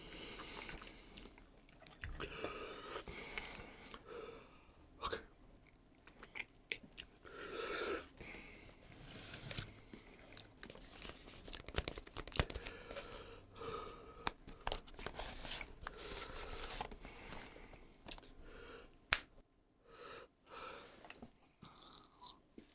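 A person chewing a crunchy hot chip, with irregular crunches and hissy mouth sounds, and one sharp click late on that is the loudest sound.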